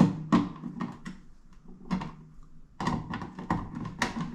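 Irregular light clicks and taps of a screwdriver on the metal mounting screws and yokes of rocker light switches being set to depth in a wall box, coming faster near the end.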